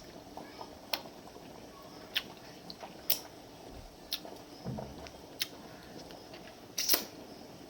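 Someone chewing food close to the microphone: irregular sharp, wet mouth clicks and smacks a second or so apart, the loudest near the end.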